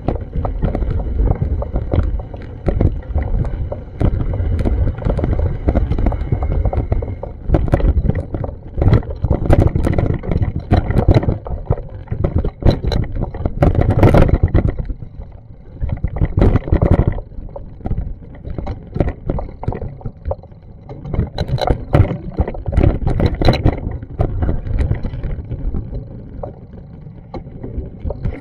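Street ambience on an action camera: a loud, gusting low rumble, most likely wind buffeting the microphone, mixed with traffic noise and frequent knocks and clicks.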